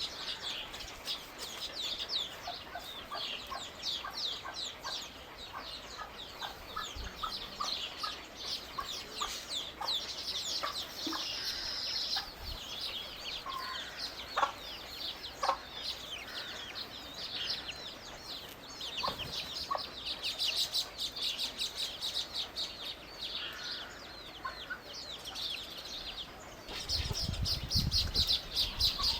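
Small birds chirping rapidly and continuously in a dense, high-pitched chatter, with a few lower calls mixed in. A low rumble joins near the end.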